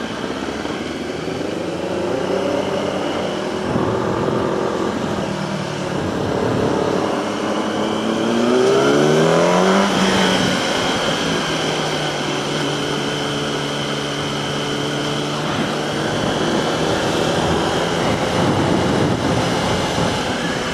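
Yamaha R1 sport bike's inline-four engine under way, pulling hard with its pitch rising steeply about eight to ten seconds in, then holding steady revs as it cruises.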